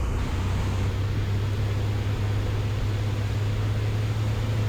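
Light single-engine aircraft's piston engine and propeller droning steadily as heard in the cockpit: a constant low hum under an even hiss. The engine is on the landing approach with the mixture rich and carb heat on.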